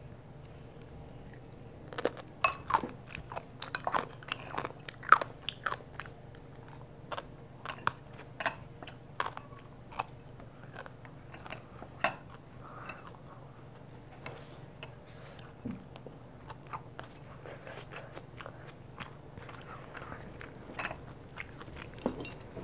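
Seasoned dried radish being chewed close to a clip-on microphone: a dense run of sharp, wet crunches starting about two seconds in, turning softer and sparser after about ten seconds.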